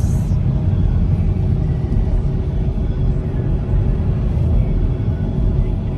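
Steady low rumble of a car driving on the highway, heard from inside the cabin: engine and tyre noise.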